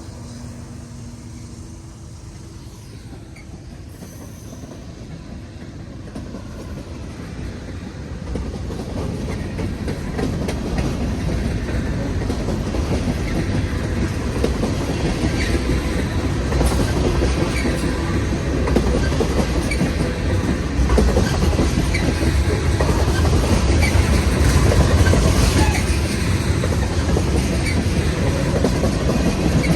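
Freight cars of a long freight train rolling past, wheels clattering over the rails with a heavy rumble and a few short squeals, growing steadily louder.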